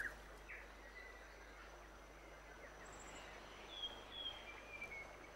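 Faint outdoor ambience with scattered short bird chirps and whistles, and a brief high trill about three seconds in, over a steady hiss.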